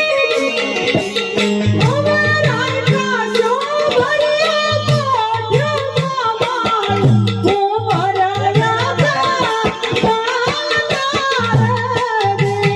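Devotional bhajan music: a melodic line sung over tabla accompaniment, with steady, regular drum strokes.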